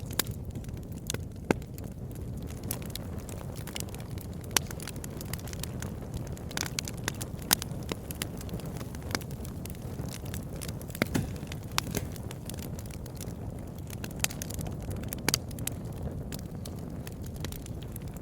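Campfire burning: a steady low rush of flames with irregular sharp crackles and pops of burning wood, a few louder pops standing out.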